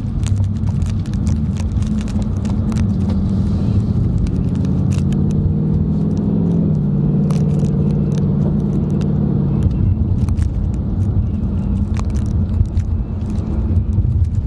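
Car cabin noise while driving: steady low road and engine rumble, with a droning note that drops in pitch about halfway through and scattered small ticks and knocks.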